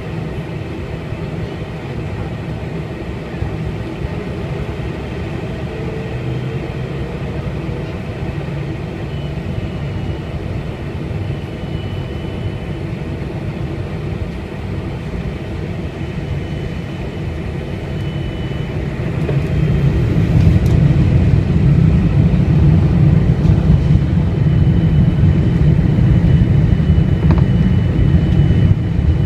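The four turbofan engines of a Boeing 747-400 run as a steady drone. About two-thirds of the way in the noise rises and settles louder, with a heavier low rumble, as the engines are brought up to takeoff thrust.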